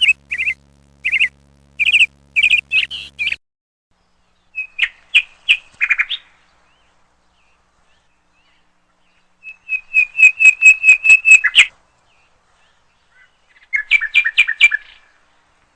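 Small birds chirping in groups of short calls with quiet gaps between. About ten seconds in comes a quick, evenly spaced series of about a dozen chirps, and another burst follows near the end.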